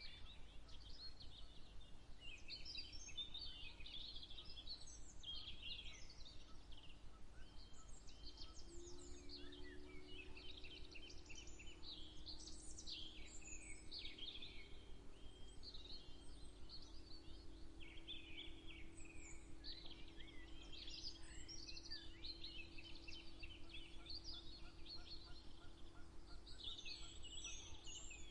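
Many songbirds chirping and trilling at once in a dawn chorus, with a steady low drone growing stronger about eight seconds in.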